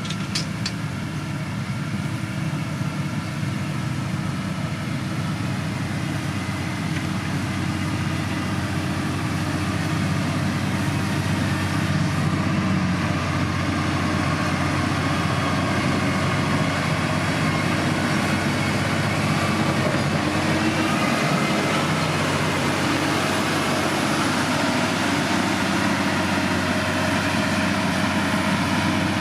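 Diesel engine of heavy road-building machinery running steadily, growing a little louder about ten seconds in.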